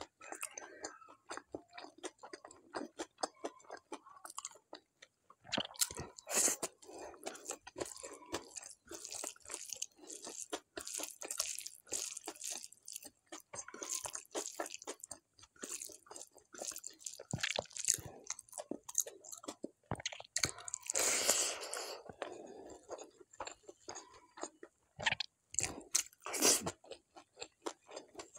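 Close-miked chewing of mouthfuls of crunchy food, with irregular crisp crunches throughout. A longer, louder crunching stretch comes about three-quarters of the way through.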